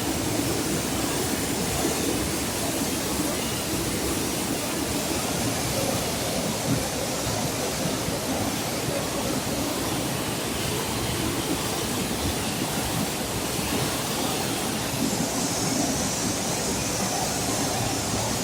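Floodwater torrent rushing down a wadi in a steady, unbroken roar of water.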